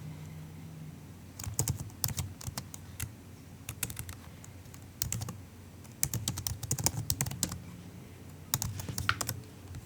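Typing on a MacBook keyboard: soft keystrokes in several quick bursts separated by short pauses, beginning about a second and a half in.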